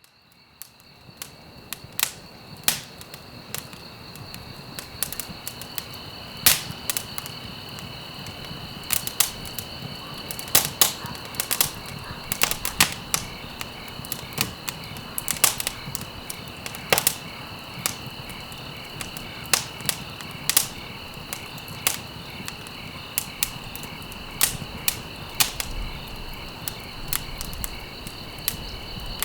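A campfire crackling, with irregular sharp pops and snaps over a soft steady hiss, fading in from silence over the first couple of seconds. A steady high insect trill, like crickets, runs underneath.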